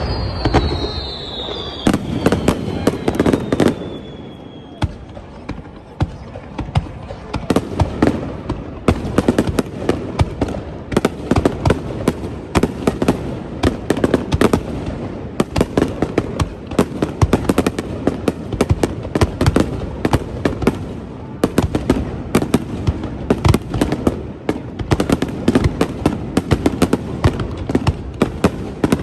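Fireworks display: a dense barrage of shells bursting, bangs and crackles following one another several times a second, with a thin whistle falling in pitch over the first few seconds.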